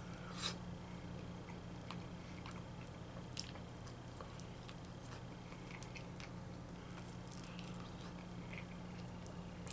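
Faint mouth sounds of someone chewing saucy chicken wings: scattered wet clicks and smacks, with a short sharp sound about half a second in, over a steady low hum.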